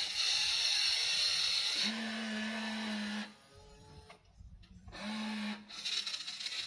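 Small electric gear motors of a WLtoys RC excavator whining as it works, in bursts: running for the first three seconds or so, dropping off briefly, then starting up again about five seconds in.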